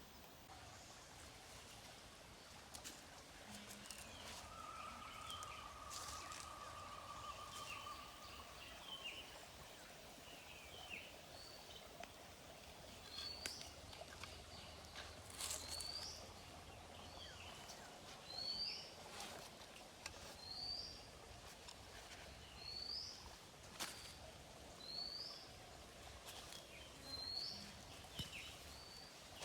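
A bird calling over and over, a short rising note repeated roughly once a second, starting partway through, with a few sharp clicks and faint outdoor background noise.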